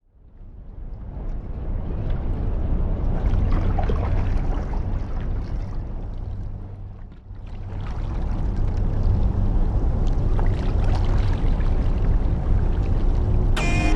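Water splashing and lapping around a sea kayak on a canal, with a heavy low rumble of wind on the microphone. It fades in from silence, dips briefly about halfway, and music begins right at the end.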